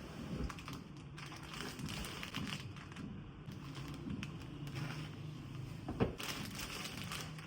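Light rustling and small clicks of things being handled, with one louder knock about six seconds in.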